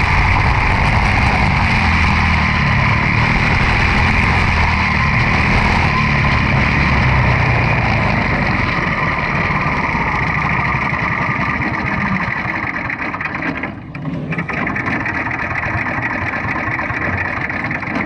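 Quarter midget race car's Briggs & Stratton Animal single-cylinder engine running, loud and steady, then easing off through the second half with a brief drop about fourteen seconds in.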